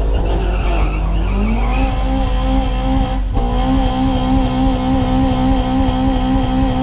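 Toyota Hilux pickup's engine heard from inside the cab, its revs climbing over the first couple of seconds and then held steady, with a brief break about three seconds in.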